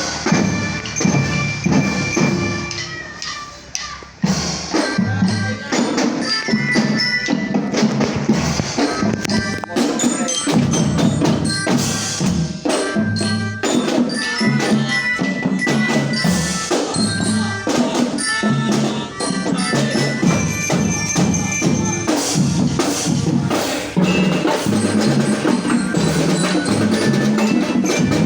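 Children's marching drum band playing: drums keeping a beat under a bright, bell-like melody from a marching glockenspiel (bell lyra). The playing drops away briefly about three seconds in and starts again about a second later.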